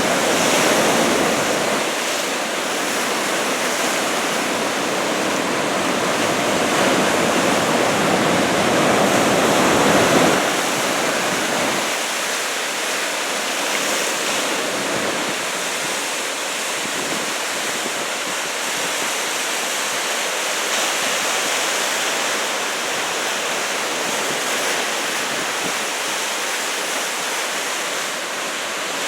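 Ocean surf from a large typhoon swell: a continuous rush of breaking waves and white water, building to its loudest about ten seconds in and easing off a second or two later.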